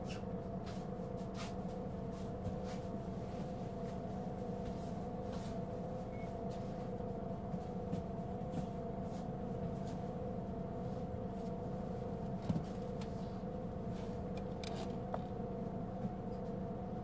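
Mitsubishi Fuso Aerostar city bus heard from inside the cabin, running steadily with a low rumble and a persistent two-note whine: the considerable abnormal noise this particular bus was known for. Light rattles sound now and then, with a sharper knock about twelve seconds in.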